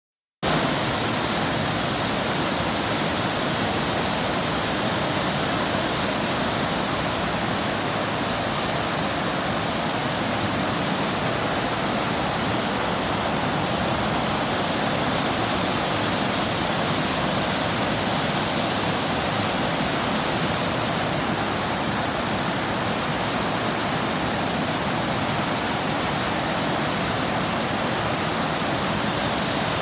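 Waterfall: water falling and splashing in a steady, unbroken rush that starts about half a second in.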